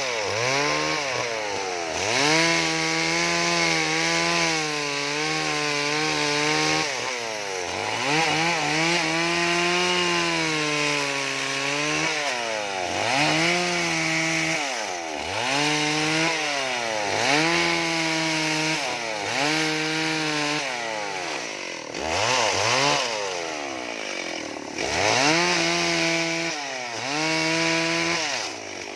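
Chainsaw engine running and cutting into wood, its pitch dropping as the chain bites and climbing back as it is eased off, over and over every second or two.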